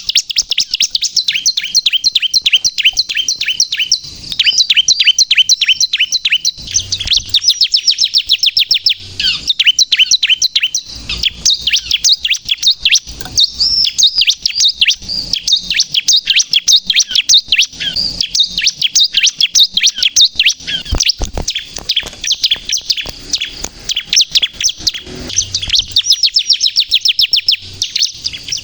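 Bar-winged prinia (ciblek) singing nonstop: long runs of rapid, high, sharp chirps, many notes a second, broken by short pauses. A few faint low knocks fall between the runs.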